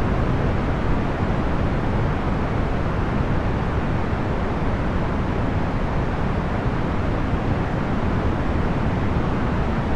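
Procedurally generated box-fan noise: a steady, even rushing of air, heaviest in the low end, with no motor hum, clicks or changes in level.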